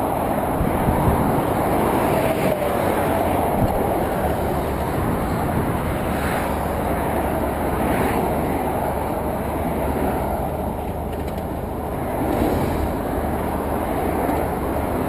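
Motorcycle running at road speed, with a steady rush of wind noise over the microphone.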